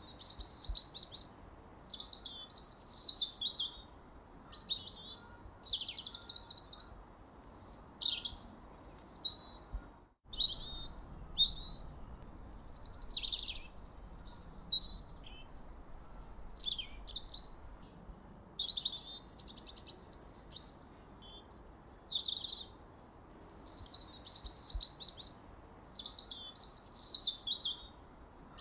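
Birdsong: short, varied high-pitched phrases of chirps, sweeping notes and trills, one every second or two, over a faint steady hiss. The sound cuts out for a moment about ten seconds in.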